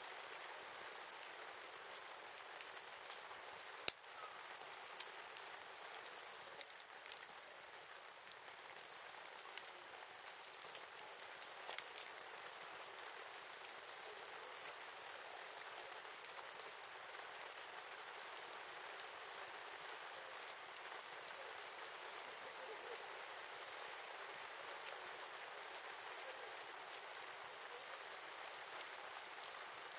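Wood campfire crackling: a steady hiss with frequent sharp pops and snaps, one louder pop about four seconds in.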